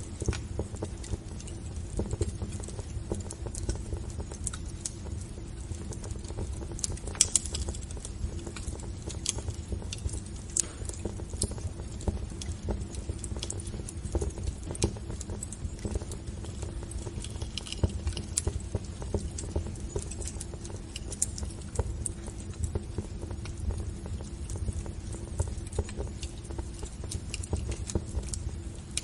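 Wood fire crackling in a fireplace: irregular snaps and pops over a steady low rumble, with a sharper pop about seven seconds in.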